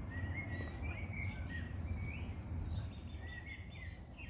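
Several songbirds singing in short chirps and quick phrases, over a steady low rumble of wind.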